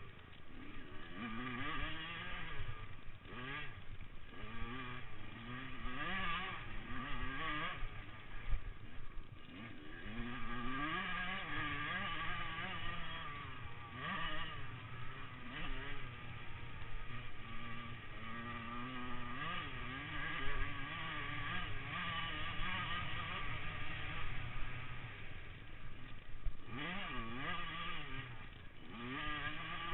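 Motocross bikes' engines revving, the pitch climbing and dropping again and again as the riders work the throttle and shift, with more than one engine heard at once at times.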